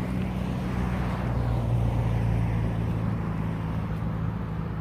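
Outboard motor of a flat-bottom boat running at speed on the river, a steady hum that grows louder about two seconds in as the boat goes by, then eases off.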